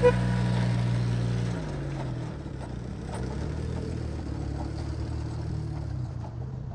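A car horn's last short toot, then the freshly repaired car's engine running steadily; its note drops about a second and a half in and holds lower.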